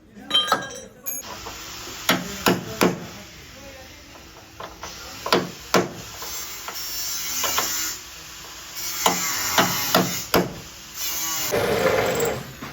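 Hammer blows on car-body sheet metal, struck in irregular groups of two or three, over a steady hiss.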